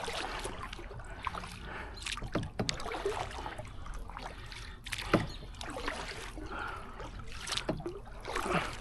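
Double-bladed kayak paddle dipping into the water stroke after stroke beside a solo canoe, with splashes and dripping water at irregular intervals.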